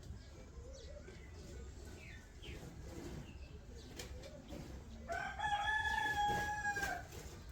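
A rooster crows once, a single pitched call of about two seconds starting about five seconds in. Faint short chirps from small birds come before it.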